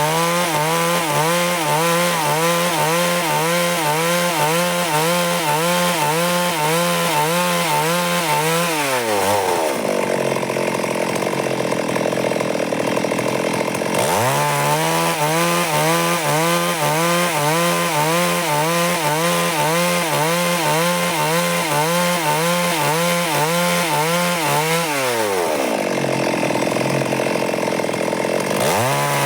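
Stihl MS 382 two-stroke chainsaw running at high speed, ripping lengthwise through a log to cut boards. Its pitch wavers steadily, drops away twice into a few seconds of harsh rasping, and climbs back each time about four seconds later.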